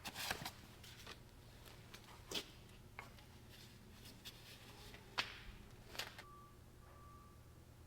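Faint, scattered clicks and knocks of hand work on a skid steer during an oil change, with two short beeps near the end.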